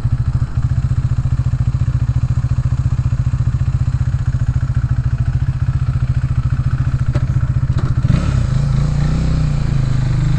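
Motorcycle engine idling with a rapid, even low beat; about eight seconds in a clunk is heard and the engine note rises and smooths out.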